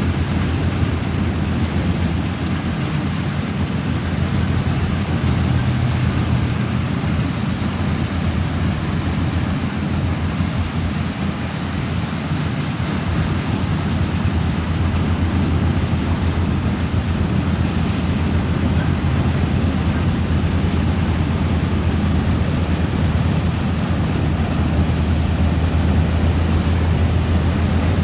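Combine harvester running steadily: a constant low engine drone.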